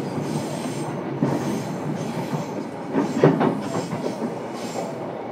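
Interior running noise of a JR East E233-7000 series electric train, heard from inside a motor car: a steady rolling rumble with wheels clattering over rail joints, the loudest run of clacks about three seconds in.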